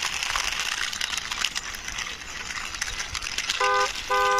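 Small toy vehicle's wheels rolling and scraping over a gritty surface with a steady hiss of small clicks, then a car-horn beep near the end: one short honk followed by a longer one.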